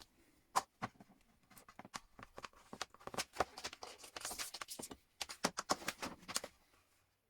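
Light, irregular clicks, taps and rustles of small parts and cables being handled.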